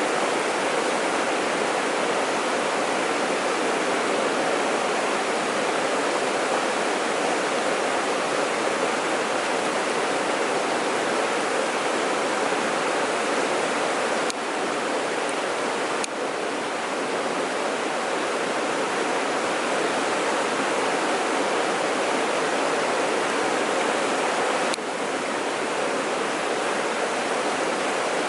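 Mountain stream water rushing in a steady, dense roar, with slight dips in level a few times.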